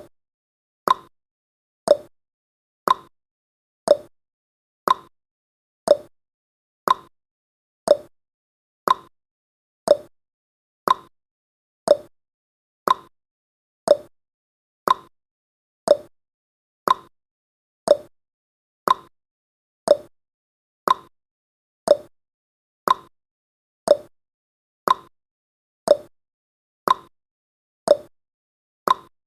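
Clock-tick sound effect of a countdown timer: one sharp tick every second, evenly spaced, each fading quickly.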